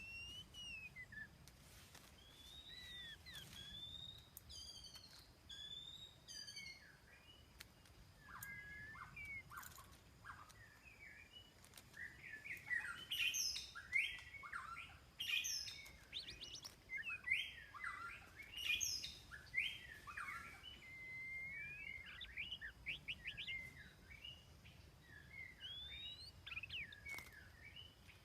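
White-rumped shama (murai batu) singing: a varied run of whistles, rising and falling notes and quick chirps, louder and busier from about twelve to twenty seconds in.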